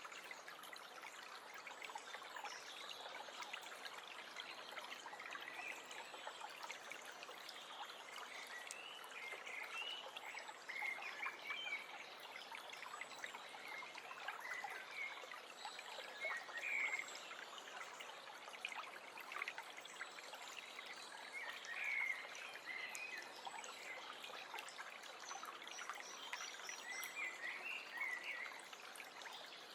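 Small forest stream trickling steadily, with songbirds chirping and calling on and off over it; a quick run of high repeated notes comes near the end.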